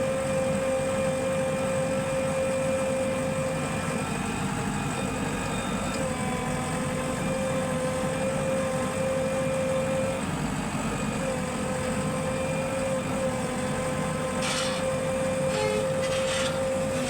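Heavy machinery engine running steadily with a constant whine over it that drops out now and then. A few sharp knocks come near the end.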